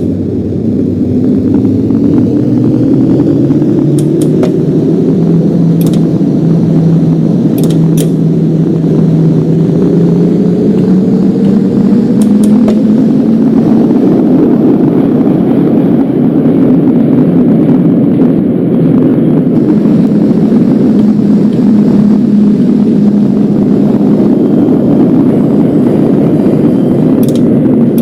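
Subway train running on the tracks with a steady rumble. Its motor whine rises in pitch over the first half as the train picks up speed, then holds steady.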